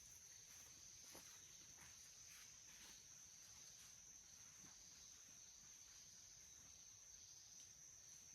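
Faint, steady high-pitched drone of insects in the forest, with a few soft crackles.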